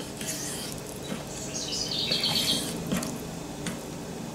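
A bird chirping in the background for about a second near the middle, with a few faint taps of a fillet knife cutting fish on a wooden cutting board.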